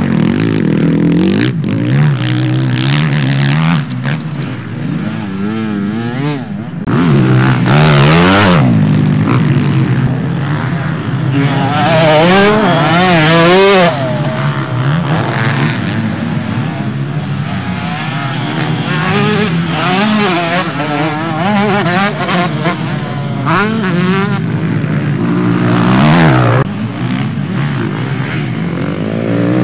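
Several motocross bikes racing on a dirt track, their engines revving up and down, with pitch rising and falling as they accelerate and shift. The sound swells loudest twice, about a quarter of the way in and again near the middle, as bikes pass close.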